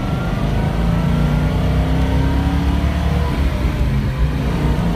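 1970 Ford Boss 302 Mustang's 302 V8 engine under way, its pitch climbing steadily as the car accelerates, then dropping about three seconds in before climbing again.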